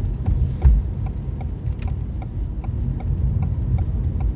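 Car cabin road and engine rumble while driving on winter roads, with a regular light ticking about four times a second and a single thump about a second in.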